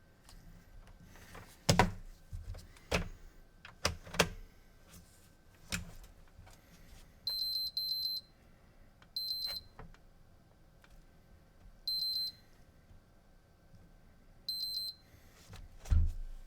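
Several sharp clicks and knocks from handling, then four short, high electronic beeps spaced a couple of seconds apart, and one last knock near the end.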